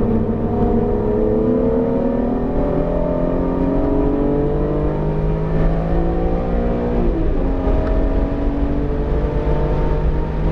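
BMW E46 M3's straight-six engine accelerating, its pitch climbing steadily. About seven seconds in, an upshift drops the revs and it pulls on at a steadier pitch. The engine is freshly built and still in break-in, kept below 7,000 rpm.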